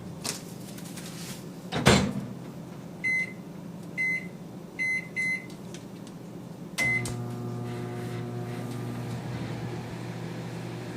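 Microwave oven door shut with a knock, then four keypad beeps as the time is set and a last beep as it starts. After that the oven runs with a steady hum.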